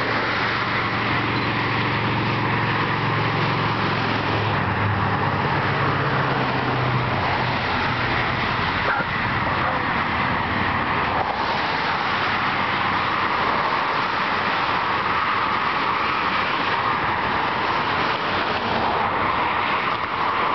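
Steady freeway traffic noise from cars and trucks passing below. A low drone during the first several seconds fades away.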